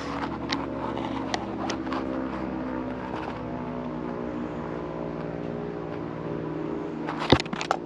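Steady engine drone that holds a set of even pitches, with a few light clicks scattered through it and a cluster of sharper clicks near the end.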